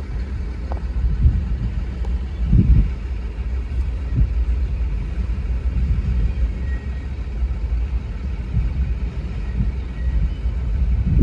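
CSX freight train's container cars rolling past over a road grade crossing: a steady low rumble of wheels on rail, with a couple of heavier thumps in the first half.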